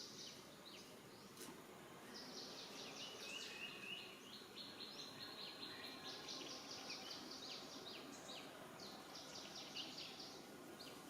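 Birds chirping in quick trilled phrases, high and thin, over faint outdoor background noise.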